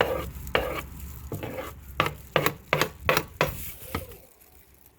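Kitchen utensils knocking and scraping against a dish while seasonings are stirred into raw oxtail, in a string of irregular clicks and knocks that die away about four seconds in.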